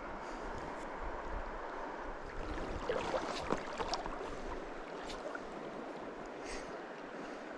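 Stream water flowing steadily, with a few short, sharp sounds about three to four seconds in.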